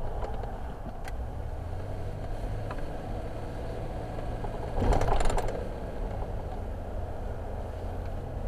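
A car being driven: steady low engine and road rumble, with a brief louder rush about five seconds in.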